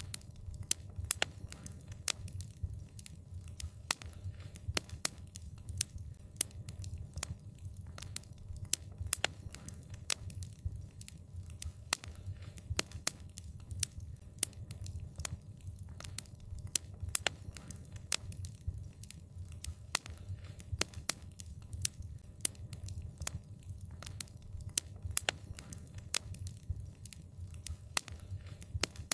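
Wood fire crackling: sharp, irregular pops, several a second, over a steady low rumble of the flames.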